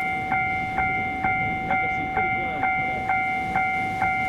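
Electronic railway crossing warning bell ringing on and on, about two dings a second, each ding a clear ringing tone that carries over to the next.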